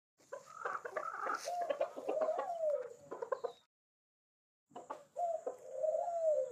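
Chickens clucking, with drawn-out calls that rise and fall in pitch among short knocks. The sound stops dead a little past halfway and starts again about a second later.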